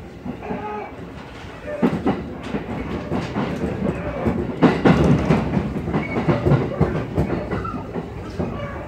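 Cabin running sound of a JR East 211 series electric train under way: a steady rumble with the clickety-clack of wheels over rail joints, getting louder about two seconds in.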